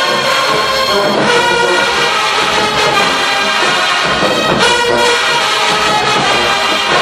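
HBCU marching band playing, its brass section loud and full in held chords that change every second or so without a break.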